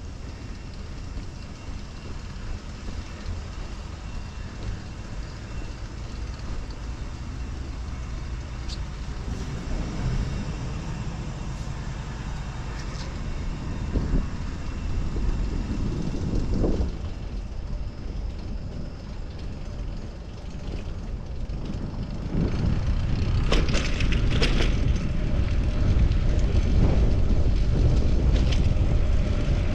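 Wind rumbling on the microphone and passing street traffic while riding a bicycle, getting louder about two-thirds of the way through.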